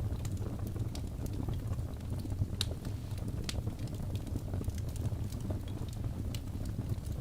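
Wood fire burning in a fireplace: a steady low rumble of flames with scattered sharp crackles and pops from the logs, one louder pop about two and a half seconds in.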